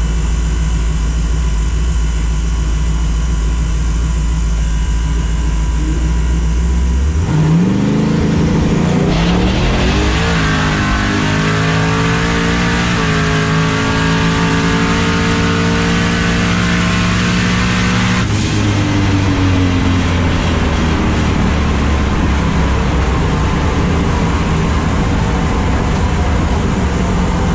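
Twin-turbo Ford Mustang making a full-throttle drag-strip pass. The engine holds a low, steady note on the line, then launches about seven seconds in. It climbs in pitch through several gear shifts, then lifts off sharply about eighteen seconds in and winds down as the car slows after the finish line.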